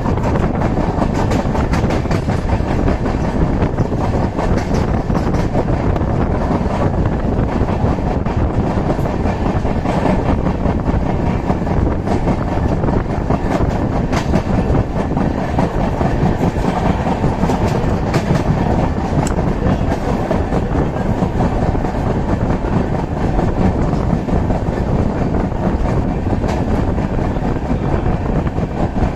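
Passenger train coach running at speed, heard from a coach window: a steady, loud rumble of wheels on the rails with frequent sharp clicks and clatter throughout.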